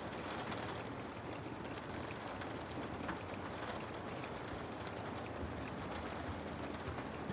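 Steady rain on a window: an even hiss with scattered ticks of single drops.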